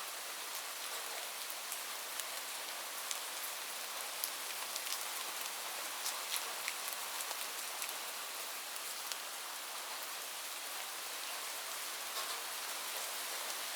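Steady rain falling on a roof, an even hiss with frequent sharp ticks of single drops striking close by.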